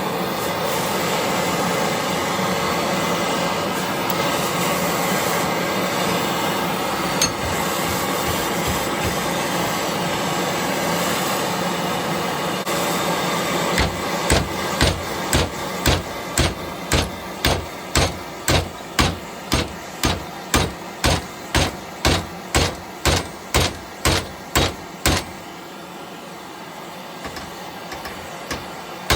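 A gas torch hissing steadily as it heats a steel tank bracket, then a hammer striking the hot steel in an even rhythm, about one and a half blows a second, to bend it. The torch noise cuts out near the end while the hammering goes on.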